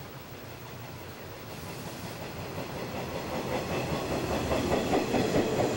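JR East 485-series limited express electric train running into the station, growing steadily louder as it nears, its wheels clattering over the rail joints in the second half.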